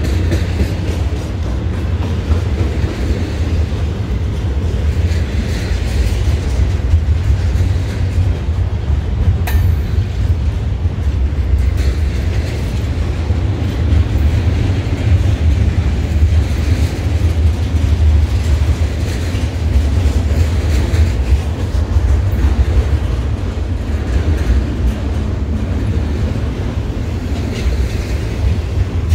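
Double-stack container freight train rolling past at close range: a steady, loud low rumble of steel wheels on the rails and the cars going by, with one sharp click about nine seconds in.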